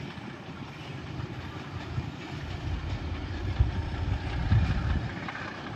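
Passenger express train running past on the track: a low rumble of wheels on rail that swells about three and a half seconds in and eases off near the end.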